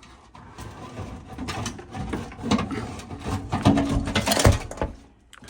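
Irregular metallic clicking and clattering from hand-tool work on metal parts, densest and loudest in the second half.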